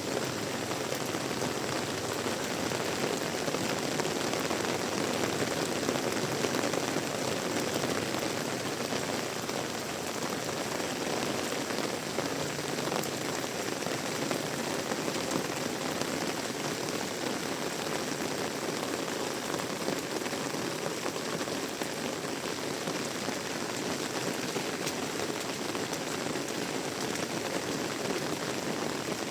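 Heavy rain falling steadily: a dense, even hiss of downpour with fine scattered drop ticks and no let-up.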